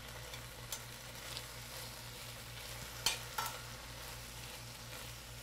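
Spinach leaves sizzling faintly in hot oil in a stainless steel skillet as water cooks out of them, turned with metal tongs. A few sharp clicks of the tongs against the pan, the loudest about three seconds in.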